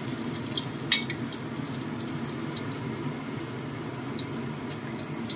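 Eggplant pieces frying in oil in a wok: a steady sizzle with small scattered crackles, and one sharp clink of the metal spatula against the wok about a second in.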